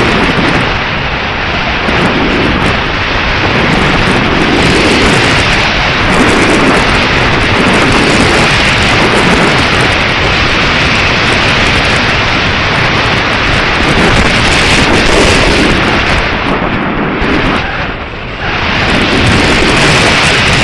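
Strong gusting wind buffeting the microphone, a loud, uneven rumbling hiss that eases briefly near the end.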